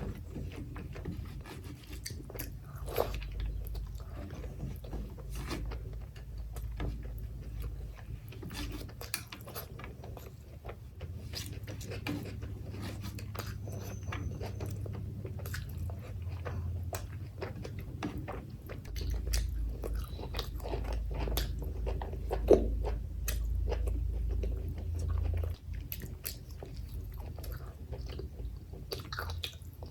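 Close-miked chewing and biting of mutton curry and rice, with many small wet mouth clicks and smacks. There is a low rumble underneath and one sharper click about two-thirds of the way through.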